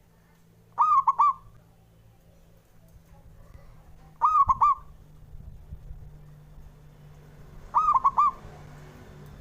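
Zebra dove (perkutut) cooing its manggung song: three short phrases of quick, bubbling coos, about three and a half seconds apart.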